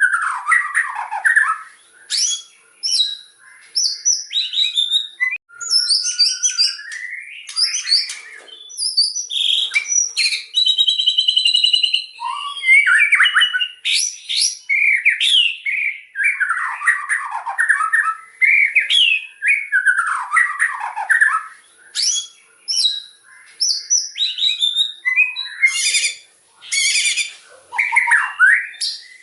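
White-rumped shama (murai batu) singing loudly, one varied phrase after another: clear whistles, rising and falling glides and rapid chattering trills, with short pauses between them.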